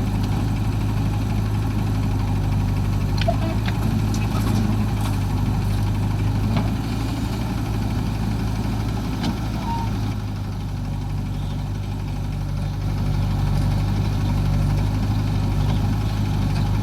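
Diesel engine of a tractor or JCB backhoe running steadily at a low, even speed, dipping a little in level about two-thirds of the way through.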